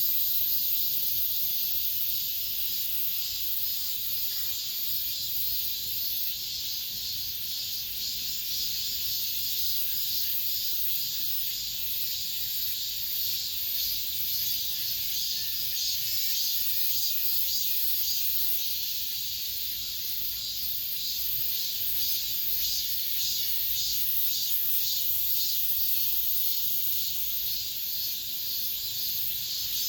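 A chorus of cicadas buzzing steadily: a dense, high-pitched hiss with a rapid pulsing flutter.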